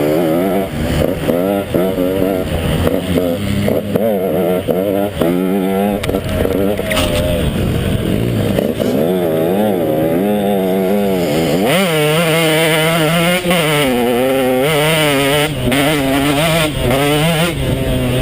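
KTM 150 XC two-stroke dirt bike engine running hard under load, its pitch rising and falling many times as the throttle is worked.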